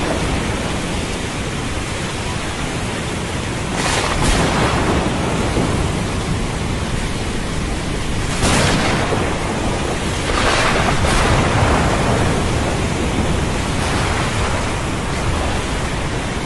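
Thunderstorm over the sea: a steady hiss of heavy rain under a low rumble of thunder, swelling in several loud surges a few seconds apart.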